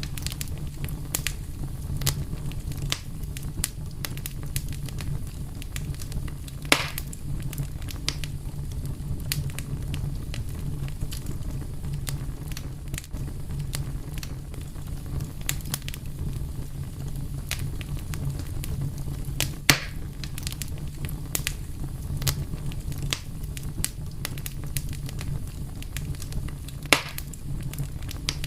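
Crackling fire burning steadily: a low rumble under a constant run of small crackles, with three sharper pops spread through.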